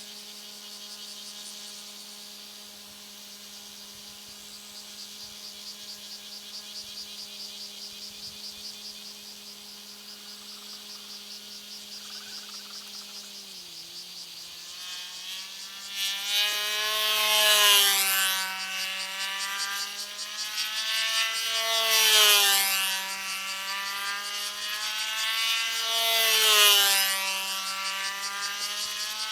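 Control-line model aeroplane's small engine running at a steady high pitch, dipping slightly about halfway through. From about 16 s in, its pitch and loudness rise and fall about every four seconds as the plane circles around on its lines and passes the microphone each lap.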